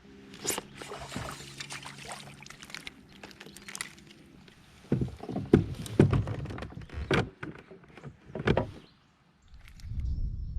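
Knocks, thumps and rattles on a kayak, loudest in a cluster of low thumps past the middle, with a steady low hum in the first few seconds.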